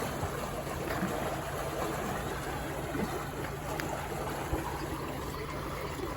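Steady low engine hum of a canal boat running over a continuous rush of water, with a few faint knocks.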